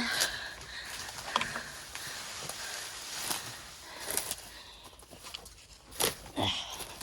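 Rustling, crackling and snapping of dense gorse and brush as someone forces a way through it on foot, with irregular footsteps and twig snaps; a few louder cracks stand out, the sharpest about six seconds in.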